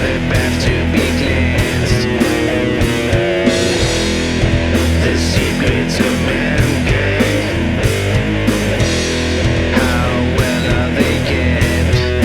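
Doom metal band playing: heavy distorted electric guitars over bass and a steady drum beat.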